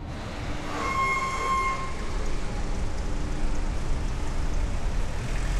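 Low rumble of vehicles waiting at a ferry port, with one high horn toot lasting about a second, starting just under a second in.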